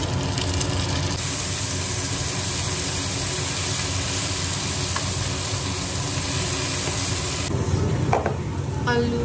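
Onions with freshly added tomatoes and green chillies frying in oil in a pan, sizzling steadily, over a steady low hum. The sizzle's hiss is strongest from about a second in and drops off near the end.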